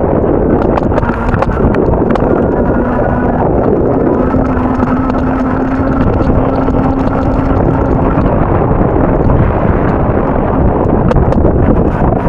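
Strong wind buffeting the microphone, loud and rushing, with a steady low hum from about one to eight seconds in.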